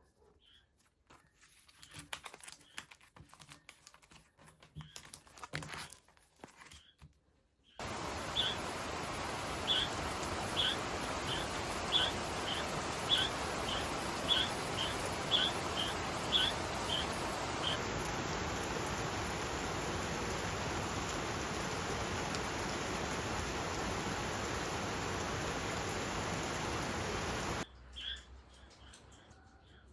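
Soft small handling clicks and rustles, then a steady hiss that starts and cuts off abruptly, with a run of short high chirps over its first half.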